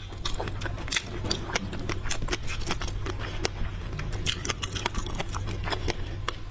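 Close-miked eating of seafood: irregular wet clicks and crackles of biting and chewing, over a steady low hum.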